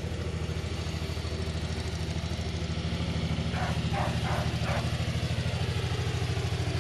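Tractor engine running steadily with an even, fast throb.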